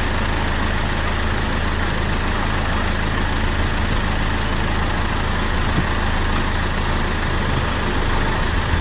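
Steady low engine hum with a hiss over it, like a vehicle idling.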